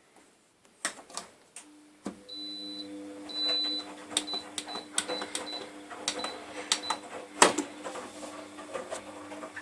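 A laundry machine starting up: a few clicks, then about two seconds in a steady motor hum comes on and keeps running. Irregular knocks and clicks sound over the hum, the loudest about seven seconds in, with a faint high whine that comes and goes.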